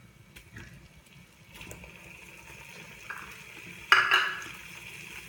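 Hot ghee sizzling in a pan as pieces of khoya are dropped into it. The sizzle starts faint and steady, with a sudden louder burst about four seconds in as a handful lands, then it fades back down.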